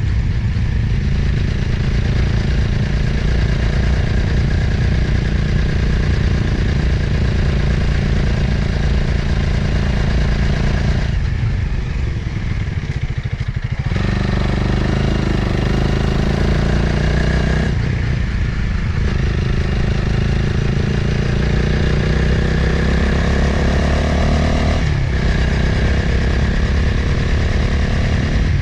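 Motorcycle engine running under way, with wind rushing over the microphone. About eleven seconds in the throttle eases off for a couple of seconds, and briefly again near the middle and about 25 seconds in; each time the engine pulls again with its pitch rising, as through gear changes.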